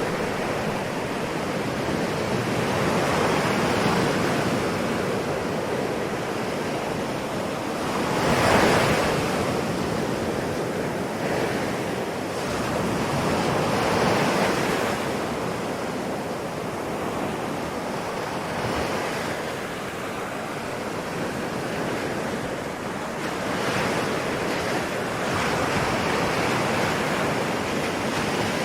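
Ocean waves breaking and washing on a shore, swelling and easing every few seconds, the biggest break about eight seconds in, with some wind.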